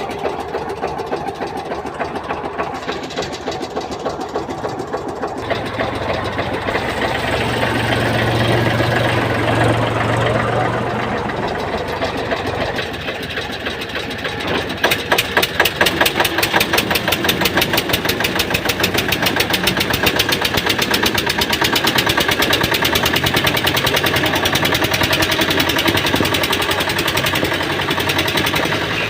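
Tractor diesel engine running hard under load. It builds up to a peak about a third of the way in, eases briefly, then holds a loud, fast, even chugging through the second half as it strains to pull the stuck tractor free.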